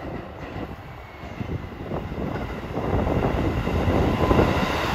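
KiYa E195 series rail-transport diesel train approaching, the running noise of its engine and its wheels on the rails growing louder from about three seconds in.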